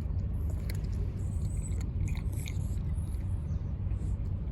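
Cat chewing food, with scattered small crunching clicks, over a steady low rumble.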